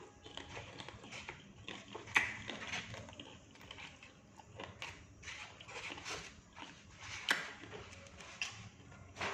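Close-up eating sounds of fried batagor being chewed: irregular crunches and wet mouth clicks, with the sharpest crunches about two seconds in and again near seven seconds.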